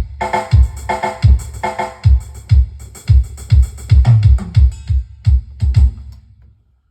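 Standard drum kit samples on a Medeli AKX10 keyboard being played: a deep kick drum about twice a second, with snare and cymbal hits over it. The playing stops shortly before the end.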